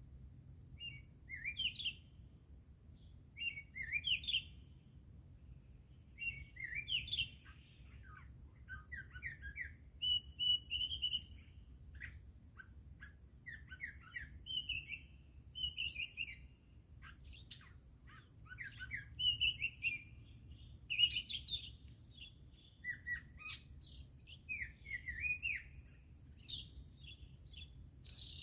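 Birds singing in short, varied chirping and warbling phrases, repeated every second or two, over a steady high-pitched whine.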